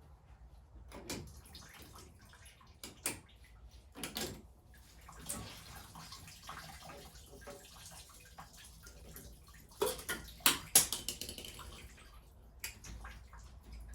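Engine coolant splashing and dripping as the Jeep Wrangler JK's thermostat housing is worked loose, mixed with scattered clinks and knocks of pliers and metal parts. The loudest splashes and knocks come about ten to eleven seconds in.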